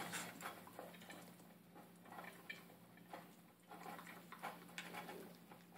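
A puppy eating from a food bowl: faint, irregular clicks and ticks of food and bowl.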